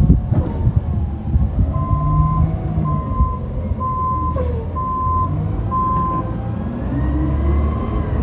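Garbage truck engine running with its backup alarm beeping five times, about once a second, as the truck reverses.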